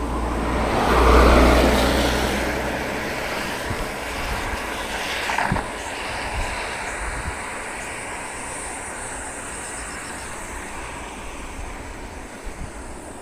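A vehicle passing on a wet road: a swell of tyre hiss and low engine rumble about a second in that fades away, followed by a steady wash of road and wind noise.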